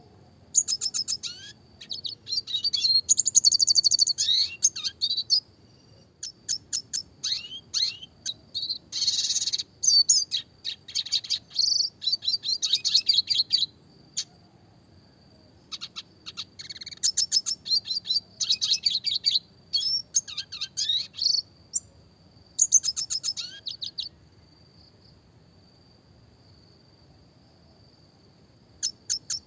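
Red siskin singing in bursts of rapid chirps, fast trills and quick rising notes, broken by short pauses and a longer silence near the end. A faint, steady high-pitched tone runs underneath throughout.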